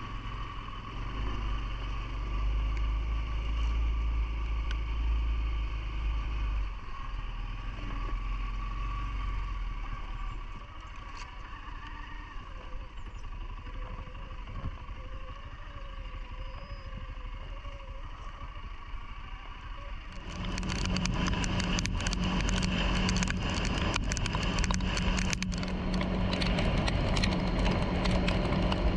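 CFMoto ATV engine running steadily, quieter for a stretch in the middle. About twenty seconds in, it suddenly gets louder with a steady engine tone and a rushing, crackling noise over it.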